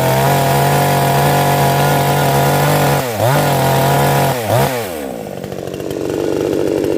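Chainsaw engine running at high revs with a steady tone. Its pitch dips and recovers twice, about three and four and a half seconds in. In the last two seconds the steady tone gives way to a rougher, lower sound.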